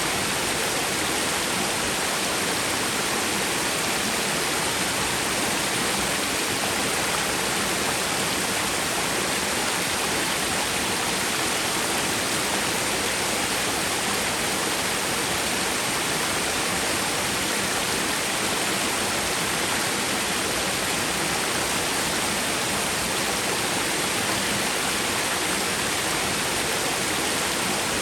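A small twin waterfall on a mountain stream, water pouring steadily with an even rush and no breaks.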